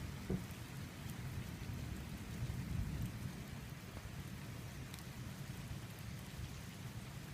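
Thunder rumbling low and continuously under the hiss of rain, swelling around three seconds in and then slowly easing, with a brief knock about a third of a second in.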